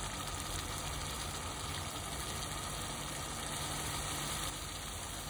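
Onion-tomato masala frying in oil in a pot: a steady sizzle, with a low steady hum beneath it.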